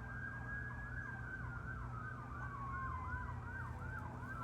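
Emergency vehicle sirens heading away: one on a rapid yelp of about three sweeps a second while a second wails slowly down in pitch, then starts climbing again near the end.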